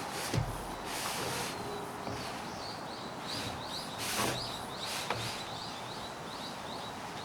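A small bird chirping in a quick repeated series, over steady wind noise. A thump just after the start and a couple of sharp knocks or clicks, like camping gear being handled, break in about four and five seconds in.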